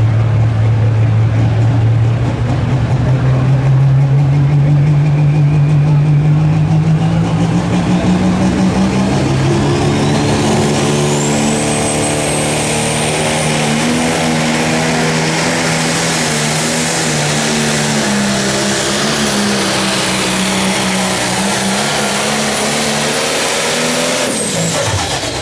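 Turbocharged diesel engine of a Pro Stock pulling tractor at full power during a pull. The engine note climbs over the first ten seconds or so, and a high turbo whine sweeps up to a steady shrill whistle. Both fall away sharply near the end as the run finishes.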